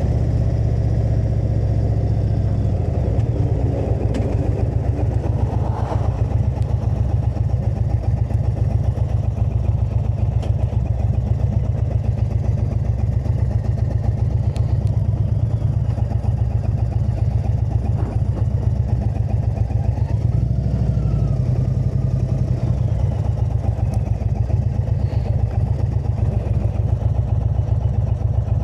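Indian Super Chief Limited motorcycle's V-twin engine running steadily while under way, with small changes in engine note about 3 seconds in and again around 20 seconds.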